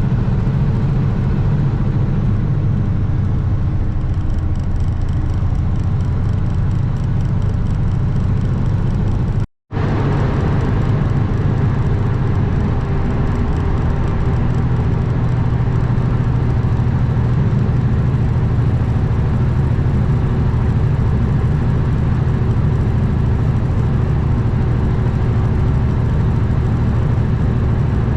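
Kenworth W900 semi truck's diesel engine running steadily at cruise with road and wind noise, heard from the cab while driving. The sound drops out for a split second about nine and a half seconds in.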